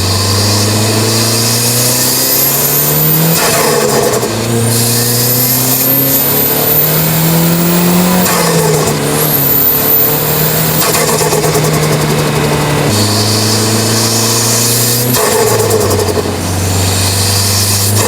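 Mazdaspeed3's turbocharged 2.3-litre four-cylinder under hard acceleration through the gears. The engine note climbs and drops back at several shifts, a thin turbo whistle rises with each pull, and a short rush of noise marks each shift as boost is let off.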